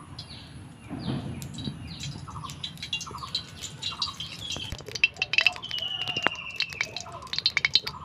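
Birds chirping and calling: repeated short falling chirps, with one held whistled note lasting about a second after the middle. From about five seconds in, a run of sharp crackling clicks joins them.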